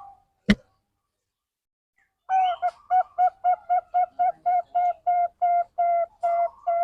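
A sharp click about half a second in. Then, after a pause, a zebra dove (Bangkok perkutut) cooing: a rapid, even series of short coos at the same pitch, about four a second.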